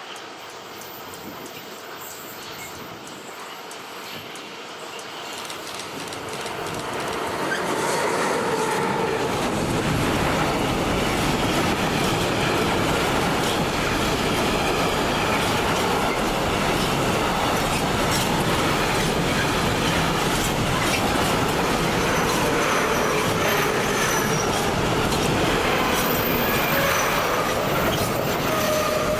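A train approaching and passing close by, growing louder over the first eight seconds, then a steady run of wheels rolling over the rails, with thin squeals from the wheels.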